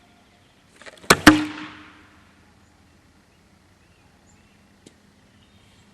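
Gas-charged airsoft mortar shell firing a foam rocket from its tube as a double fire: two sharp pops about a fifth of a second apart, followed by a brief fading hiss of escaping gas.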